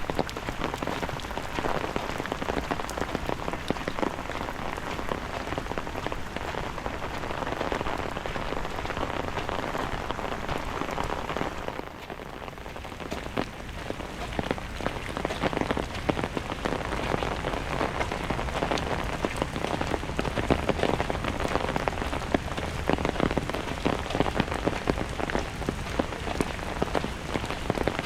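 Steady rain with a dense patter of drops, easing briefly about twelve seconds in before picking up again.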